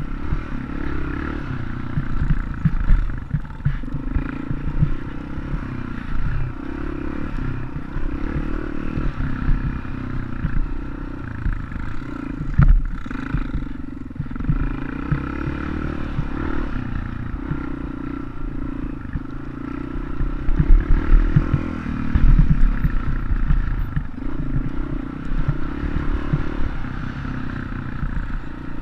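Dirt bike engine running steadily, with scattered knocks and clatter, the loudest around the middle and near the end.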